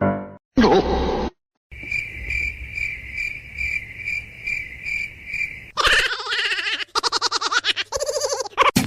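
Cricket chirping: a steady high chirp repeating about twice a second for a few seconds, then stopping.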